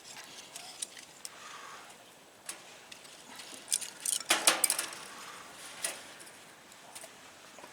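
Scattered light clicks and clinks of small hard objects being handled, with a louder burst of clatter about four seconds in.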